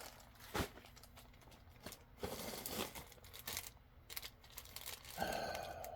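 Packaging handled and torn open by hand: scattered crinkles and short rips, with a longer rustle near the end.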